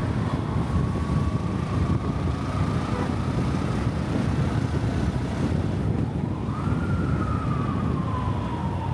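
Siren wailing: one tone holding steady, rising about six seconds in, then falling slowly toward the end, over a steady low rumble of traffic and wind.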